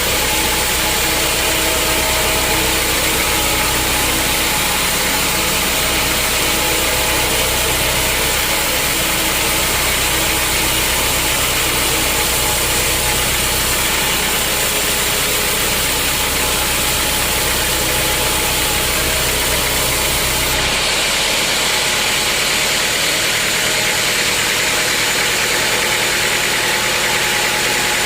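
Sawmill machinery running steadily with a loud mechanical hum and hiss. About 21 seconds in, the low hum drops away abruptly and the high hiss grows louder.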